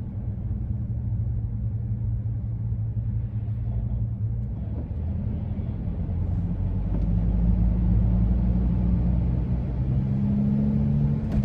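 Driving noise in a 2001 Ford E-350 van: a steady low rumble with a low, held howl from the roof rack, which grows louder about two thirds of the way through. The cause of the howl is unknown; it persists after the rack was taken fully down and reinstalled.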